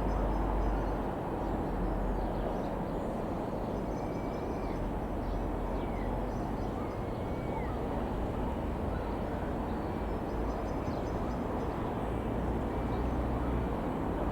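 Piston engine of an Avid Flyer Mk IV light aircraft running steadily, heard as a continuous rumble with a low hum, with a few bird calls over it about four to eight seconds in.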